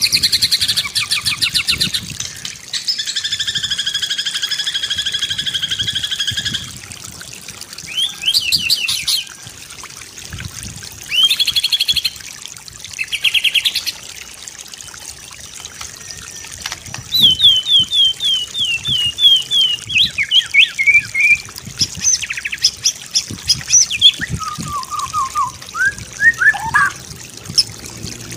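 White-rumped shama singing a varied song: rapid trills, a steady note held for about three seconds, then runs of quick down-slurred whistles and lower whistled phrases near the end. Running water trickles faintly underneath.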